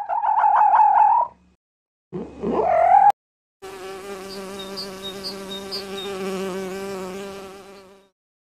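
Two short, loud, high wavering cries from a red fox, then a honeybee buzzing steadily for about four and a half seconds, an even droning hum.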